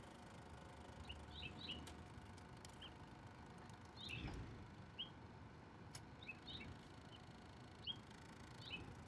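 Small birds chirping in short, scattered calls over faint outdoor ambience, with a soft low thud about four seconds in and a couple of sharp clicks.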